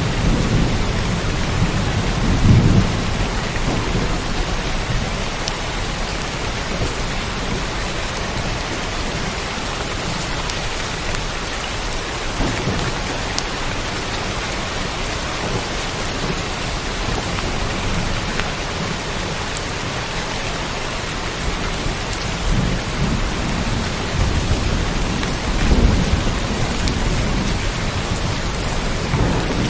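Steady rainfall, an even hiss of drops. Deep low rumbles swell up about two and a half seconds in and again near the end.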